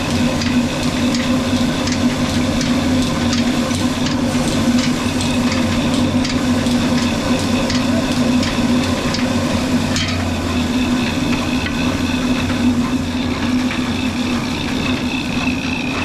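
Old Ruston diesel engine running steadily while driving a flour mill, with a regular ticking knock over the first ten seconds or so.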